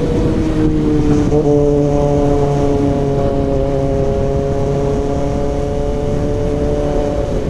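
Kawasaki ZX-6R inline-four engine running through an SC Project CRT exhaust, holding steady revs with a deep, even drone; the pitch sags slightly, then steps up a little about a second and a half in.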